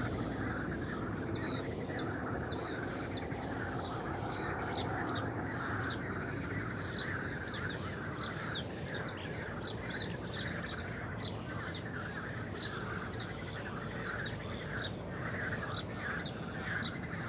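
Small birds chirping: many short, high chirps repeating over a steady background hiss.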